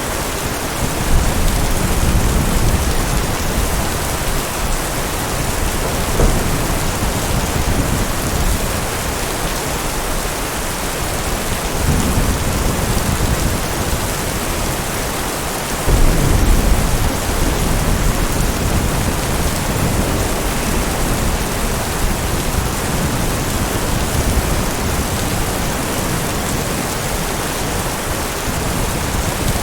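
Steady heavy rain with thunder rumbling several times, the loudest rumble just past halfway through.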